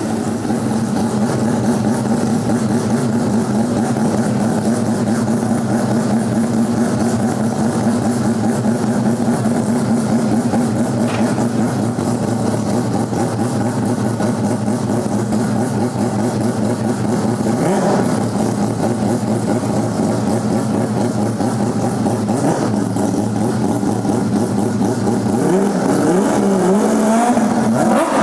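Mazda 767B's four-rotor rotary engine running steadily, then revved up and down a few times near the end.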